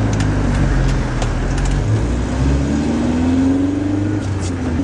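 Zastava 101's four-cylinder engine, heard from inside the cabin, pulling as the car drives off: a steady low drone whose pitch rises for a couple of seconds in the second half as the car accelerates, then starts to rise again near the end.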